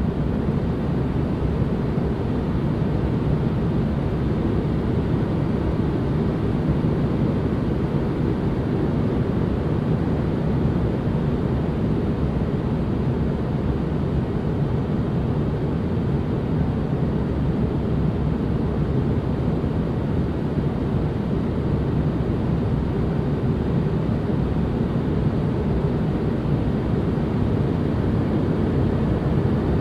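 Steady, unchanging noise track for relaxation: a deep, muffled hiss weighted toward the low end, with little treble.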